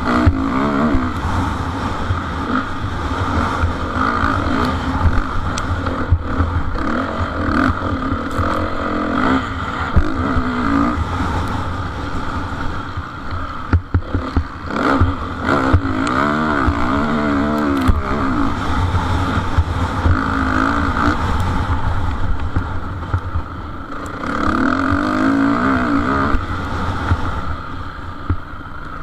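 Motocross bikes racing, their engines revving up and down through the gears, with louder swells as bikes come close several times.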